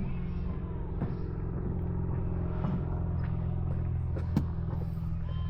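A steady low engine hum, like a motor running nearby, with a few faint clicks over it.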